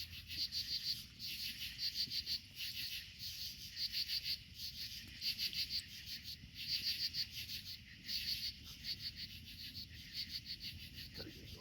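A night chorus of high-pitched pulsing calls, short rapid trills repeated about three times every two seconds, over the low steady rumble of a large outdoor bonfire.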